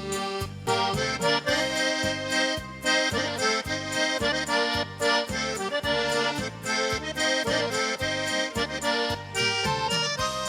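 Instrumental break of a Russian chanson-style pop song: an accordion plays the melody and chords over a steady bass-and-drum beat, with no singing.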